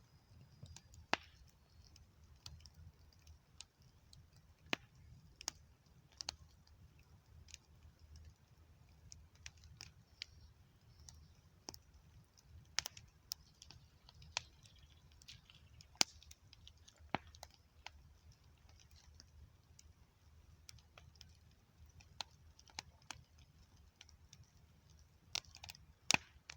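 Campfire crackling: irregular sharp pops and snaps of burning wood, a few much louder than the rest, over a faint low rumble.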